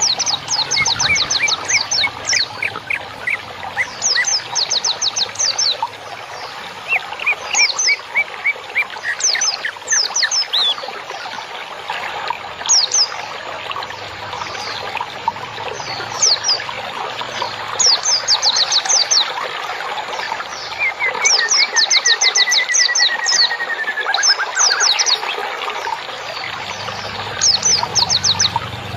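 Songbirds chirping in quick trills of short, falling high notes, with a slower run of lower chirps and one gliding, wavering phrase near the end, over a steady trickle of running water.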